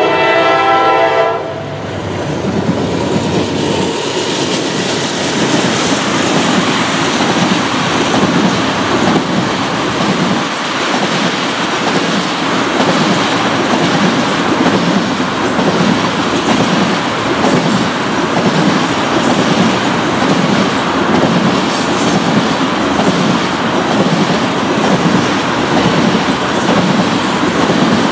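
Freight locomotive horn sounding a chord that cuts off about a second and a half in, then a train of black ethanol tank cars rolling past, its steel wheels clattering in a steady clickety-clack rhythm.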